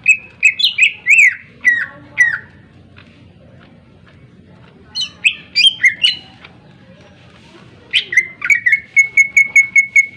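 Green leafbird (cucak ijo) singing loud, clear whistled phrases in three bursts. The last burst ends in a fast run of identical repeated notes, about five a second.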